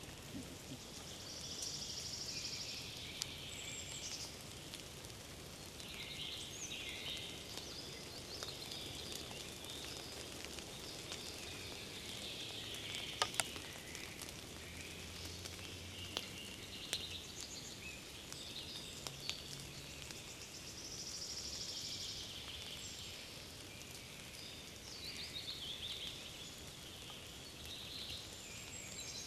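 Forest birdsong: several small birds singing overlapping trills and warbled phrases over a steady background hiss, with a couple of sharp clicks about halfway through.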